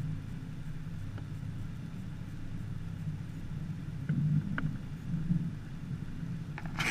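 A boat's motor running at a steady speed, a low even hum, with a few faint ticks a little past halfway and a sudden burst of splashing noise right at the end.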